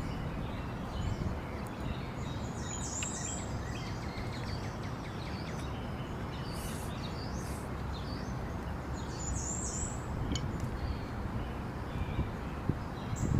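Outdoor ambience: a steady background hiss with birds chirping in two short bursts several seconds apart.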